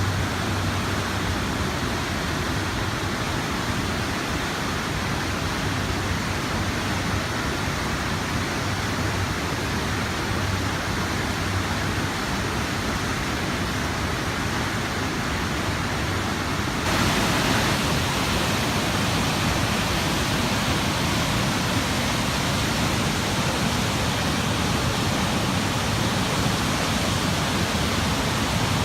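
Fast river water rushing in a steady, even roar. It turns louder and brighter a little over halfway through.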